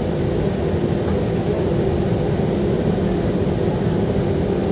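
Steady cabin drone of a Boeing 737-300 in flight, its CFM56-3 turbofans and rushing airflow making an even roar with a low hum underneath.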